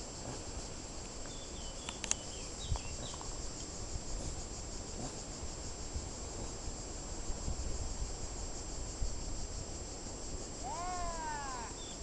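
Outdoor rural ambience: a steady high-pitched insect hiss, a few faint bird chirps about two seconds in, and a quick run of rising-and-falling bird calls near the end.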